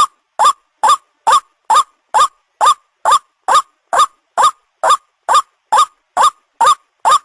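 White-breasted waterhen (ruak-ruak) calling, a bird-lure recording: short, identical notes repeated evenly about twice a second, each sweeping up in pitch.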